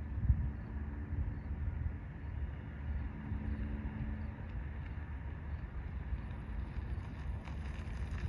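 Wind rumbling on the microphone over the steady drone of a small propeller plane's piston engine, which fades out about halfway through.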